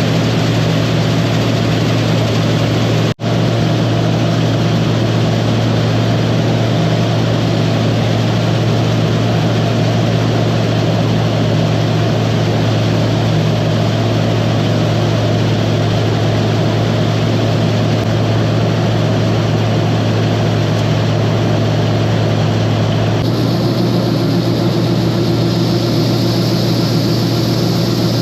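A combine harvester running steadily while cutting soybeans, with a constant low engine and machinery drone. The sound breaks off for an instant about three seconds in, and its character shifts slightly near the end.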